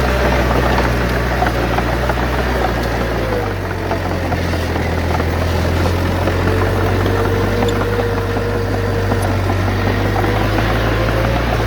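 Heavy diesel earthmoving machinery running steadily, a deep engine drone with a faint whine over it; the engine note drops about three and a half seconds in.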